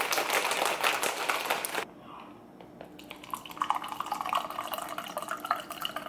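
Ice rattling in a metal cocktail shaker, cut off suddenly about two seconds in. Then the shaken cocktail pours from the shaker into a glass, with ice clinking.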